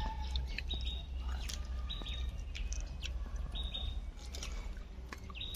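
A bird chirping outdoors, short high calls repeated about once a second, with a few crisp crunching clicks from chewing a fried singara (samosa).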